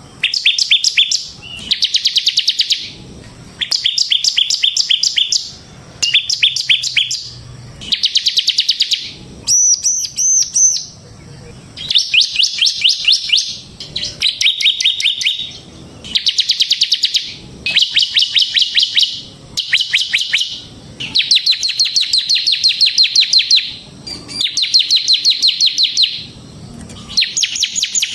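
Bar-winged prinia (ciblek semi) singing loudly in a series of rapid, ticking trills, each phrase about a second long, repeated with short pauses. About ten seconds in, one phrase is higher and wavering.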